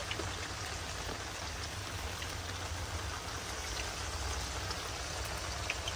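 Battered onion fritters (pyaji) sizzling steadily as they deep-fry in a small pan of hot oil.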